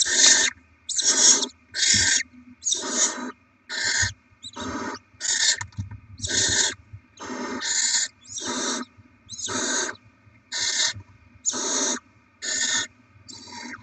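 Barn owl chicks begging with repeated short rasping hisses, about one and a half a second, a steady string of food-begging calls.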